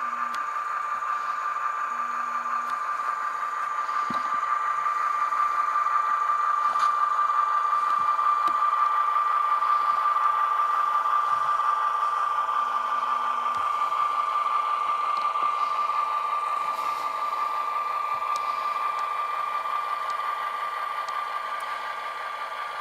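HO-scale Kato NS C40-9W model locomotive running with its Tsunami sound decoder playing diesel engine sound through the model's small speaker, along with the hum and rattle of the running model. It grows louder toward the middle and fades again toward the end.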